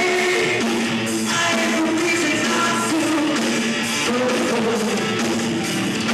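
Rock band playing live, guitar-led, with a voice singing over it.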